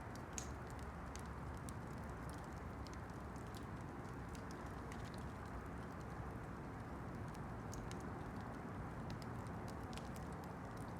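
Wood campfire burning: a steady low rushing hiss with scattered sharp crackles and pops at irregular intervals.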